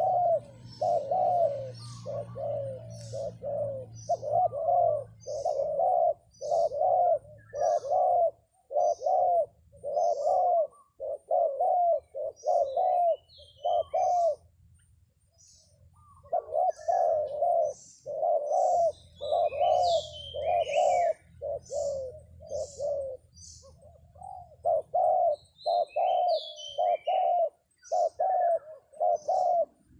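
Spotted doves (terkukur) cooing in a long, even series of low notes, about one and a half a second, with a short pause about halfway through. Small birds chirp faintly and high above them.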